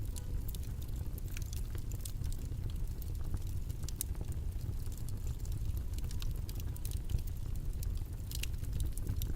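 Steady low background rumble with scattered small clicks and taps, the light handling noises of someone working at a desk.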